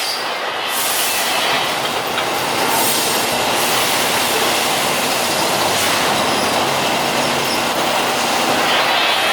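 Metalworking machinery for rebar running steadily, with a continuous grinding noise and a thin metallic squeal over it.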